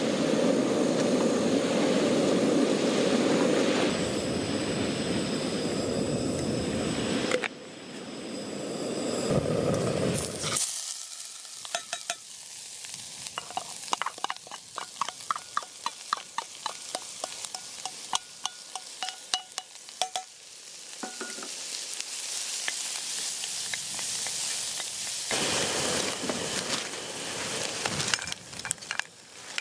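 Camp cooking: food sizzling and frying, with spells of small clicks and clinks from utensils and cookware.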